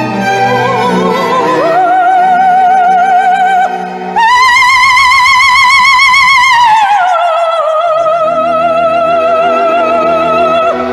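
Female voice singing a wordless vocalise with wide vibrato over a string orchestra. About four seconds in she leaps to a high held note as the low strings drop away, then glides down near seven seconds to a lower note held over the returning strings.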